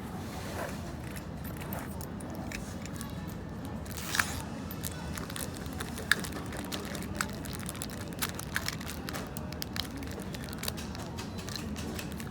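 Coffee-shop ambience: a steady background hum of the room with many small clicks and knocks scattered through it, two sharper knocks about four and six seconds in.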